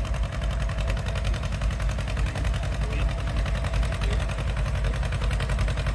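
Antique farm tractor engine running hard and steady under load while pulling a transfer sled, with a rapid, even exhaust beat.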